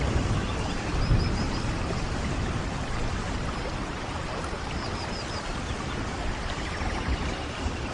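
Steady rain falling. A low rumble comes about a second in, and two brief runs of faint high chirps sound over the rain.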